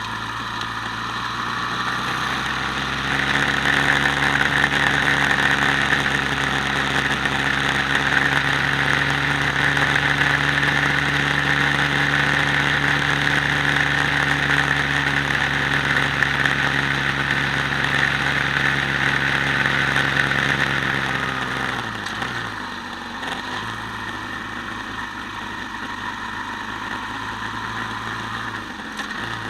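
Quad bike engine running at a steady pitch. It picks up a few seconds in, holds there, then drops back to a lower, steady speed about 22 seconds in.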